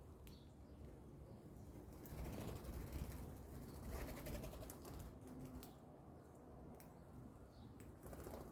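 Birds at a grain feeder: a flurry of rustling and wing flaps a couple of seconds in, scattered sharp taps, and a brief low coo.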